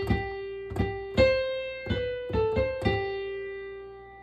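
Piano playing a slow single-note melody with the right hand, about seven notes, the last one held and fading away.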